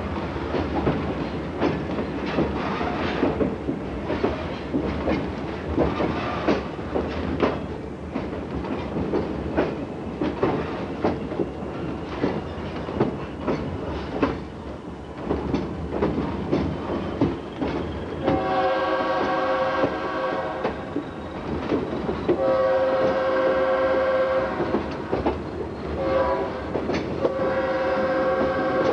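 Moving train's wheels clicking over rail joints with steady running noise, then the locomotive horn sounds a long, long, short, long pattern, the standard signal for a grade crossing ahead.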